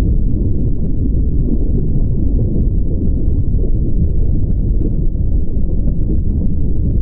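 A loud, steady low rumble with faint crackling above it.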